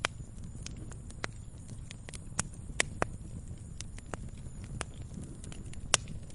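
Campfire crackling: irregular sharp pops and snaps of burning wood over a low steady rumble of the flames, with a few louder pops about three and six seconds in.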